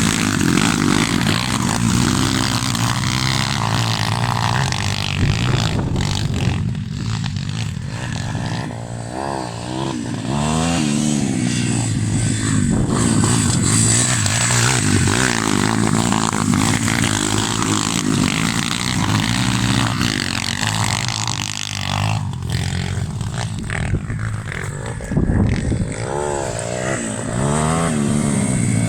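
Pitbike engine ridden hard off-road, revving up and dropping back again and again as the throttle is opened and closed.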